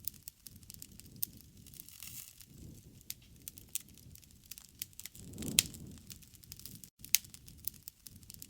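Campfire crackling: wood snapping and popping in irregular sharp clicks over a low rush of flame. There is one louder pop about halfway through.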